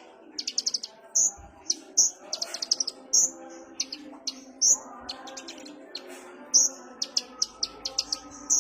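Olive-backed sunbird (kolibri ninja) singing: sharp high chirps alternating with fast rattling trills of clicks, in quick irregular phrases.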